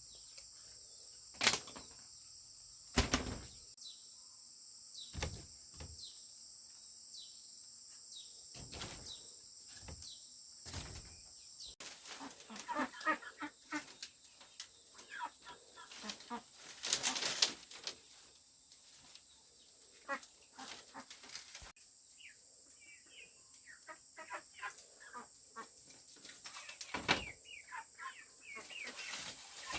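A handful of sharp knocks spaced a second or two apart, then farm chickens clucking and calling with a burst of wing flapping about halfway through.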